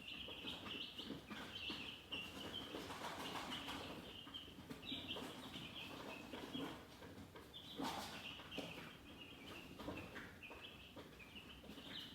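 Chickens chirping: a steady, dense run of short high peeps, with occasional lower clucks underneath.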